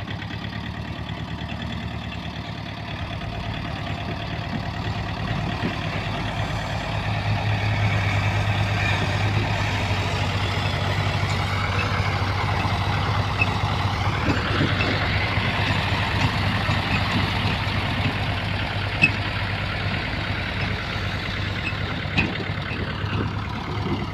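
Hyundai Robex excavator's diesel engine running under hydraulic load while digging and loading mud. The engine gets louder about seven seconds in, with a gliding whine partway through and a few sharp knocks.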